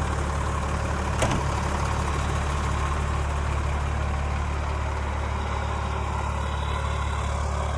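Mercedes-Benz Unimog U500's turbo diesel engine idling steadily, with a single short click about a second in.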